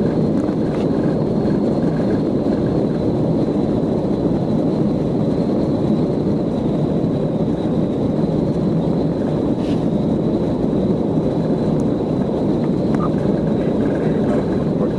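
Steady vehicle rumble: an even, unbroken low noise of a moving vehicle.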